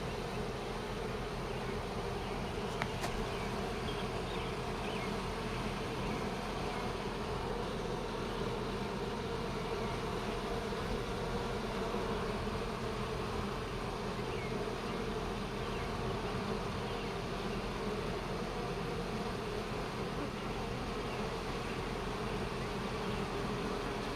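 Honeybees buzzing in a steady hum, thousands of them at an open, crowded hive.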